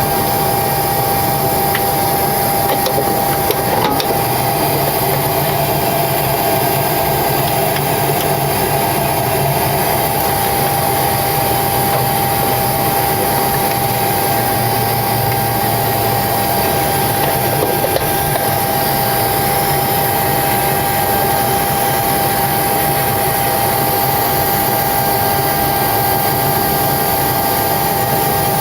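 Steady hum of a Boeing 727-200 cockpit on the ground before engine start, with a constant high whine over an even rush of noise and a single faint click about four seconds in.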